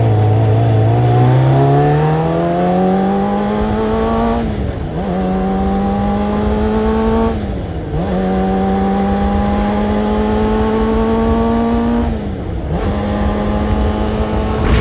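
Kawasaki sport motorcycle engine accelerating hard through the gears, its note climbing steadily and dipping briefly at each of three upshifts, over a steady rush of noise.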